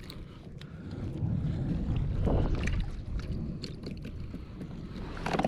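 Wind buffeting the microphone on a kayak at sea, swelling about a second in and easing after three seconds, with scattered small clicks and knocks of gear being handled.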